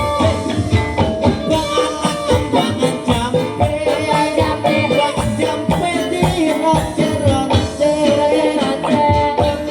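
Live jaranan dangdut music: a steady, driving drum beat under melodic instrument lines.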